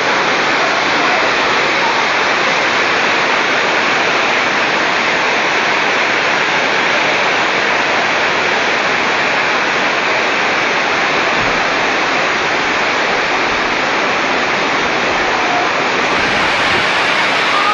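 Torrential rain pouring down, a dense, steady hiss of water.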